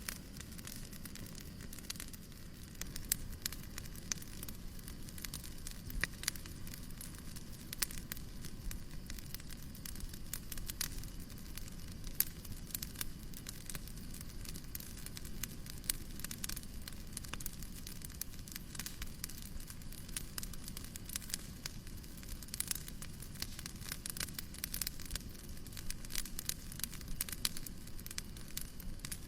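Fireplace crackling: irregular sharp pops and snaps, some louder than others, over a steady low rushing hiss.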